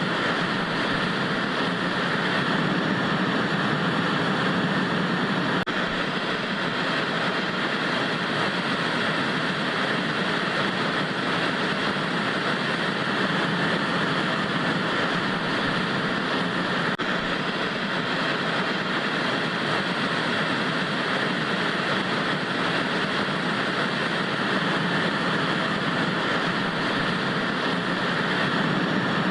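Steady hiss of analog TV static, an even noise without pitch or rhythm.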